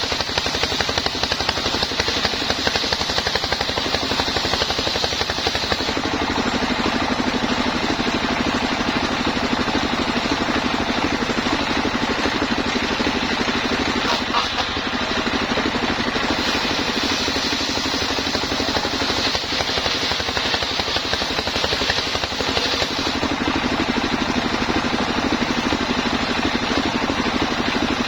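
Engine-driven homemade sawmill running steadily, with a high whine that comes in twice for several seconds each time.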